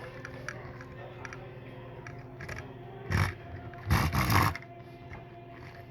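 Small plastic Lego pieces being handled and fitted, with light clicks and a few louder clatters about three and four seconds in, over a steady low hum.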